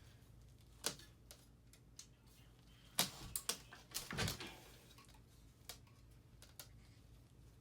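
Scattered sharp clicks and light knocks from hands working parts loose on a dirt bike's frame and engine. They are loudest in a cluster about three to four seconds in.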